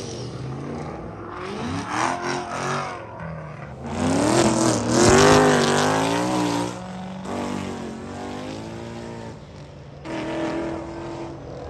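Sports car engines accelerating hard away from a traffic light, revving up with rising pitch, loudest about four seconds in, with a second shorter pull near the end.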